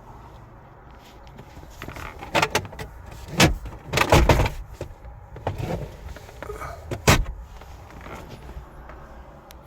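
Knocks, clunks and rustling as a car's doors and interior are handled, with the loudest clunks about four seconds in and again about seven seconds in.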